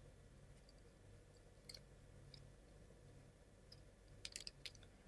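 Near silence with a few faint clicks of plywood model-kit parts being handled and fitted together, then a quick run of clicks about four seconds in.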